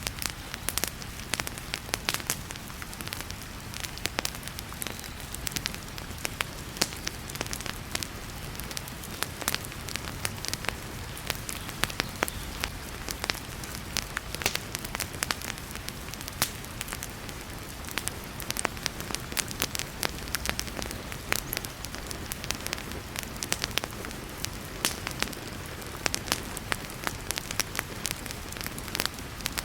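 Wood fire crackling in a fireplace, many sharp pops over a steady hiss of heavy rain.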